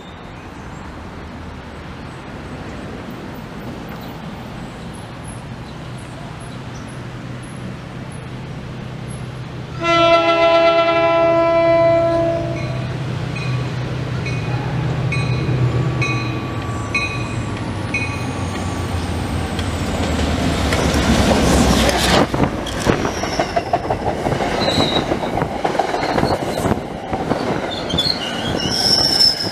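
MBTA commuter rail train approaching and passing. A low rumble builds for about ten seconds, then the horn sounds one long blast of about two seconds, followed by a bell ringing steadily for several seconds. In the last part the train passes close by at speed, its wheels clattering over the rail joints.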